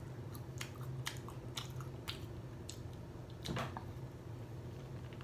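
Close-miked mouth sounds of chewing a burger, with scattered wet clicks and smacks, then a louder bite into the Impossible Whopper about three and a half seconds in.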